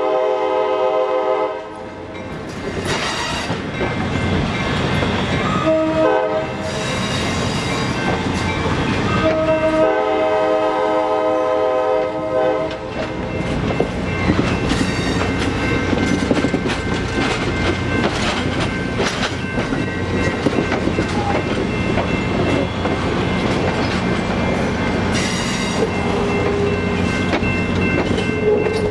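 Passenger train's air horn sounding a chord: the tail of a long blast, a short blast about six seconds in, and another long blast from about nine to thirteen seconds, the close of a long-long-short-long grade-crossing signal. After that the passenger cars roll by with a steady clickety-clack of wheels over rail joints, and a steady whine comes in near the end.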